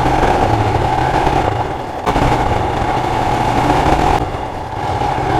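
Royal Enfield Himalayan's single-cylinder engine running as the motorcycle is ridden along a rough forest trail, its level easing off briefly twice.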